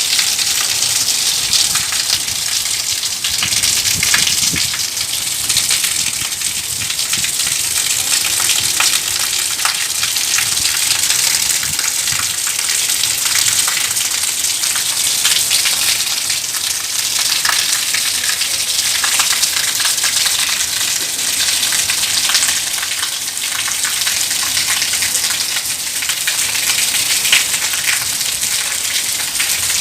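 Steady rain falling and pattering on surfaces, a dense even hiss flecked with countless small drop ticks.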